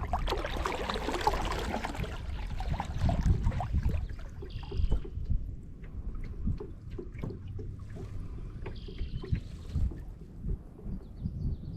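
Kayak paddle dipping and splashing through lake water, louder for the first few seconds, then drips and light knocks over a low rumble.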